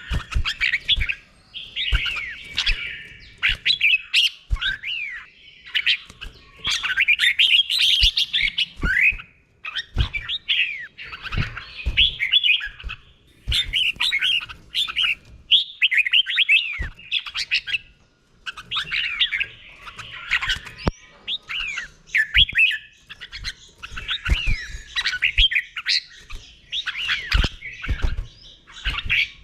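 Red-whiskered bulbul singing: phrase after phrase of quick, sliding whistled notes, each phrase a second or two long with short pauses between. Faint low knocks come now and then.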